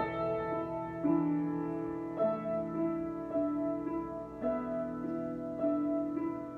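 Piano improvisation played slowly: held notes and chords, with a new note struck every half second to a second.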